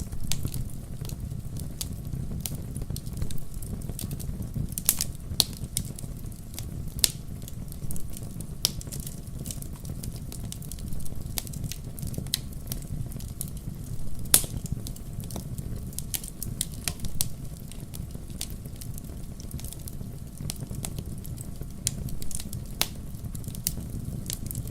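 Wood fire burning in a fireplace: a steady low rumble of flame under frequent sharp crackles and snaps, with a few louder pops.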